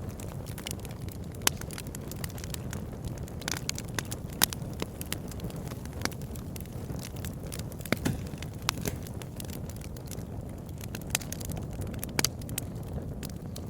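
Campfire burning steadily, with irregular sharp crackles and pops from the wood over a low, even rumble of the flames.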